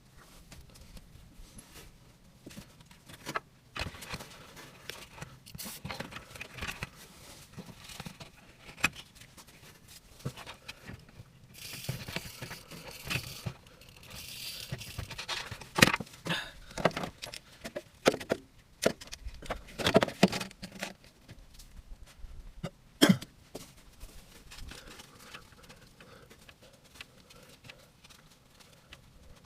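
Irregular clinks, knocks and rustling of hands and tools at work, with a hiss-like stretch of noise about twelve seconds in and a few sharper knocks later on.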